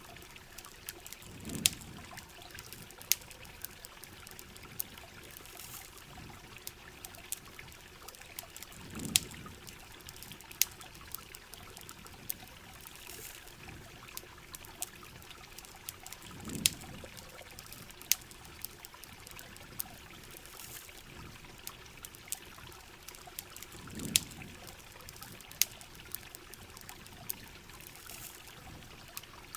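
Rain and campfire ambience: a steady wash of rain with scattered sharp crackles and pops, and a low swell that comes back about every seven and a half seconds, like a repeating loop.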